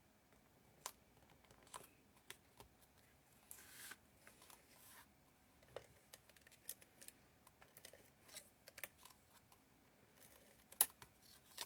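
Quiet handling of cardstock and paper pieces on a craft table: scattered light taps and clicks, a short paper rustle a few seconds in, and one sharper click near the end.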